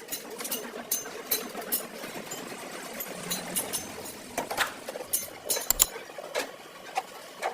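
Hand tools working on metal: irregular sharp clicks and knocks, a few each second, over a steady background noise.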